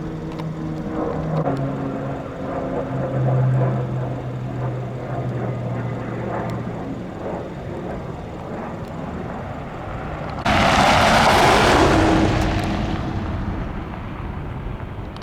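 Aircraft engines droning, their pitch shifting in steps over the first several seconds. About ten seconds in, a sudden loud rushing noise starts and fades away over a few seconds.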